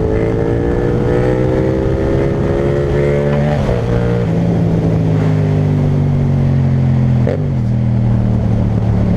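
Yamaha MT-07 parallel-twin engine through an Akrapovic titanium exhaust, heard while riding: the revs climb slowly under throttle, then drop sharply at a gear change a little over a third of the way in and ease down while cruising, with a quick blip of revs near the end.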